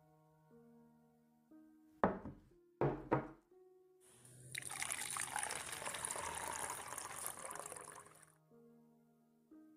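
Liquid, coffee, poured into a cup for about four seconds, after two knocks about two and three seconds in, over soft piano music.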